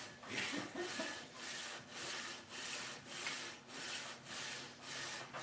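Aluminium LS cylinder head being rubbed back and forth by hand on sandpaper to flatten its deck face, a steady rasping scrape at a little under two strokes a second.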